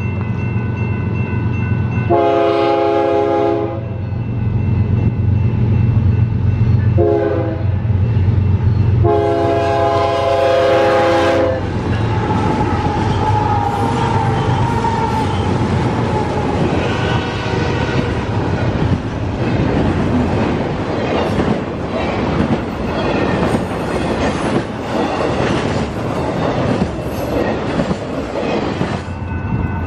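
BNSF diesel freight locomotives sound their air horn at a grade crossing, over the steady rumble of their engines: a long blast, a short one, then another long one. The locomotives then pass close by, followed by double-stack container cars whose wheels clatter over the rails and crossing.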